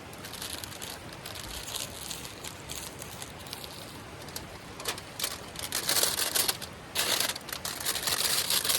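Wood campfire crackling and popping: many sharp pops over a steady hiss, growing louder in the second half.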